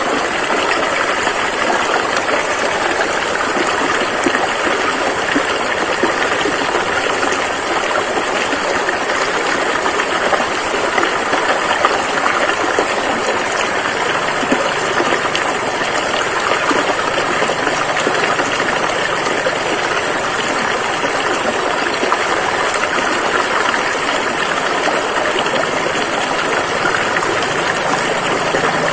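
Rushing river water flowing steadily, a continuous even rush.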